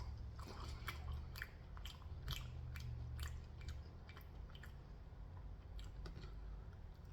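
A person chewing food close to the microphone: irregular small wet clicks and crunches of the mouth.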